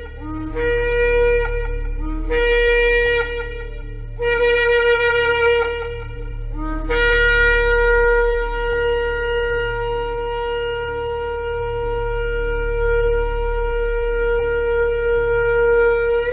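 Shofar blown in four blasts. Each blast opens on a brief low note and jumps up to a steady higher tone: three blasts of a second or two each, then one long blast held about nine seconds. A low steady drone runs underneath.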